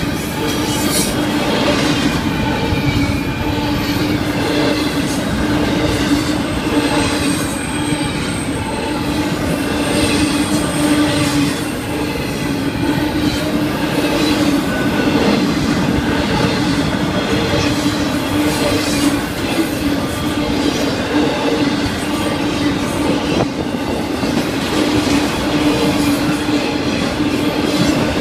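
Florida East Coast Railway intermodal freight cars rolling past: a steady rumble and rattle of wheels on rail, with a steady low tone underneath. A faint high wheel squeal comes in about seven to twelve seconds in.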